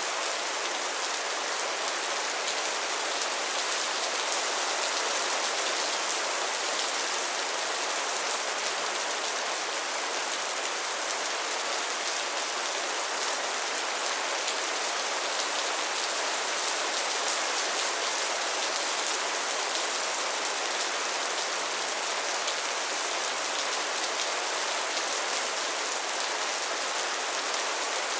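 Steady rain falling, an even hiss of many drops with fine pattering.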